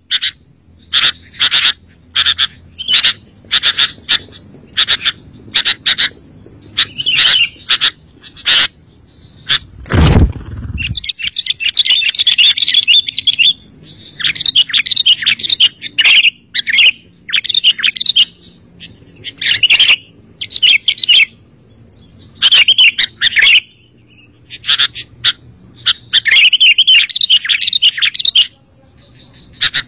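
Sooty-headed bulbul (kutilang) singing and calling repeatedly in short, quick chirpy phrases with brief pauses between them. A dull low thump comes about ten seconds in.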